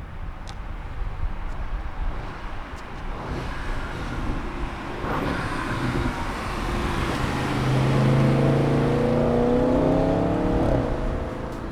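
Audi RS6's twin-turbo V8 accelerating: a low rumble that builds into a loud, climbing engine note about two-thirds of the way through, then falls away near the end.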